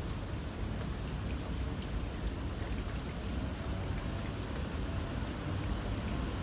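Light rain falling, with scattered faint drop ticks over a steady low rumble, and a thin high insect trill held steady until near the end.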